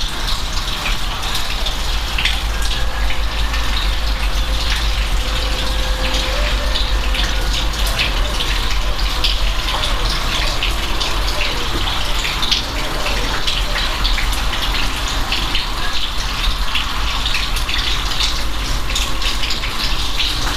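Steady rain falling, an even hiss with many close drops splashing.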